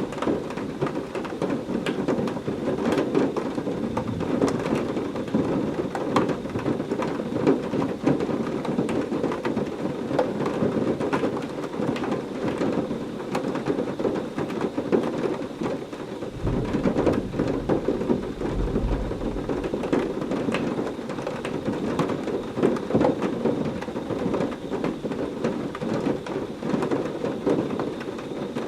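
Heavy rain falling steadily, with a deep roll of thunder about sixteen seconds in that lasts a few seconds.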